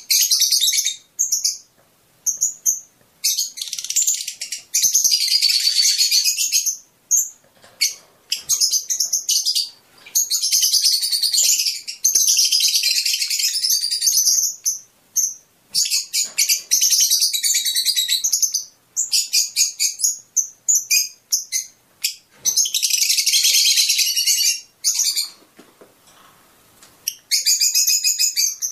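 Fischer's lovebirds chirping and chattering: rapid runs of shrill, high-pitched chirps alternating with dense stretches of chatter a few seconds long, broken by brief pauses. The calling thins out near the end.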